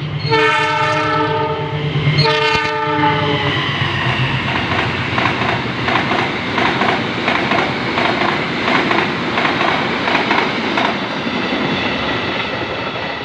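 Train horn sounding two blasts, each about a second and a half long, followed by the rumble of the train's wheels clacking rhythmically over the rail joints as it rolls through the station, fading near the end.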